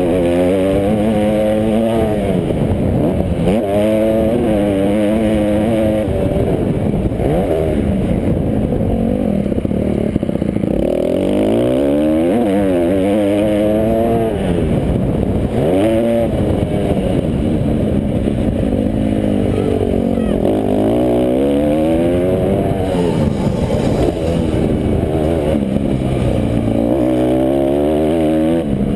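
Motocross motorcycles racing, their engines revving up and down in pitch again and again as they accelerate and back off, with more than one bike heard at once.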